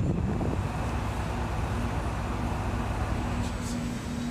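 Steady mechanical rumble, with a low steady hum that comes in about a second in.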